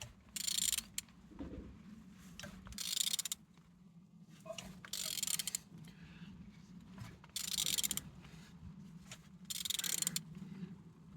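Used engine being turned over by hand at the crankshaft, turning freely, with a short rasping ratchet-like burst about every two and a half seconds, five in all, over a low steady hum.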